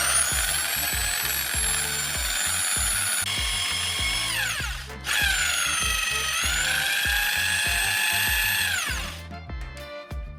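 A small electric power tool's motor running at a high whine, winding down and stopping about halfway through, then starting again and winding down to a stop near the end. Background music plays underneath.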